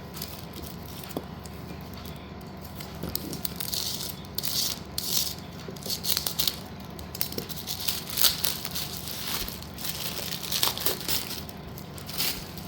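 Packets of slate pieces being handled: plastic crinkling and loose slate pieces rattling. It comes in irregular bursts that grow busier from about three seconds in, with a few sharp clicks.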